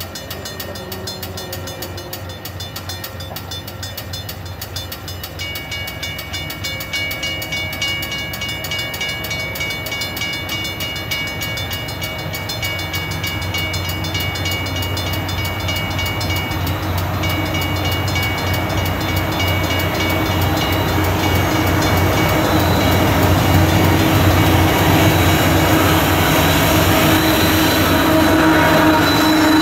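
Union Pacific train approaching and growing steadily louder, its diesel locomotives rumbling low, with thin, steady high squealing tones from the wheels setting in after about five seconds.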